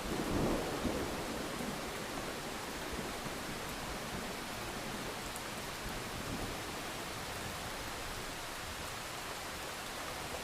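Steady rainfall, an even hiss of rain. The last of a rolling thunder rumble fades out in the first second.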